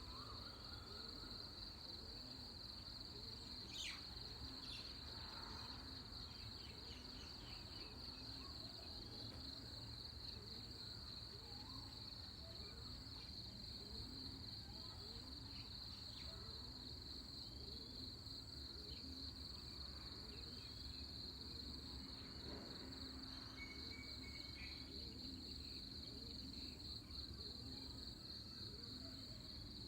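Nighttime insects trilling steadily in a continuous high-pitched chorus, with scattered short bird chirps and a low steady rumble underneath.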